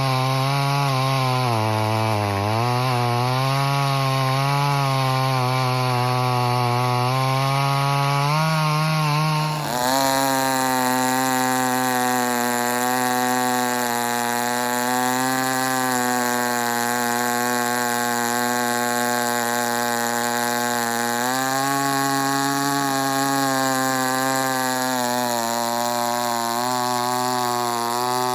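Poulan 245A two-stroke chainsaw running at high revs while cutting wood, its pitch dipping and recovering as the chain loads in the cut. About ten seconds in the sound changes abruptly to a steadier, slightly lower-pitched saw still cutting, as the footage switches between the stock and the ported 245A.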